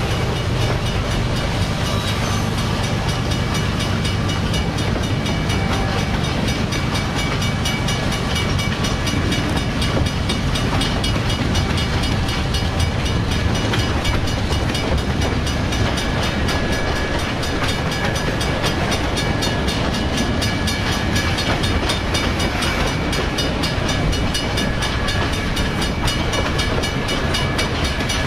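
Freight train rolling past: a steady, unbroken rumble and clatter of wheels on the rails.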